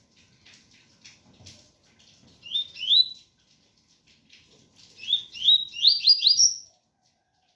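Double-collared seedeater (coleiro) singing the pure 'tui-tui' song: clear, upward-slurred whistled notes, a pair about two and a half seconds in, then a quick run of five near the end.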